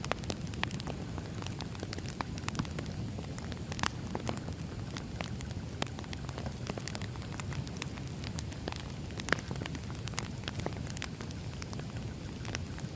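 Wood fire burning: a steady low rumble of flames with frequent irregular crackles and pops of burning logs, a few sharper pops standing out.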